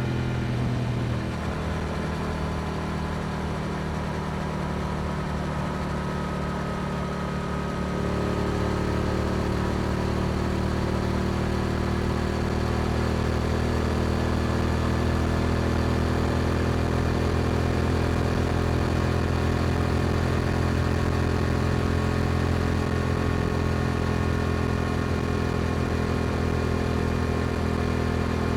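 Yamaha R7's 689 cc parallel-twin engine running through an Akrapovic exhaust while riding. The note drops back about a second in, then from about eight seconds on it grows louder and climbs slowly in pitch before holding steady at cruise.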